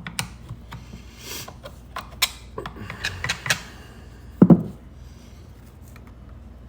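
Clicks and rubbing of things being handled, then a single heavy thump about four and a half seconds in.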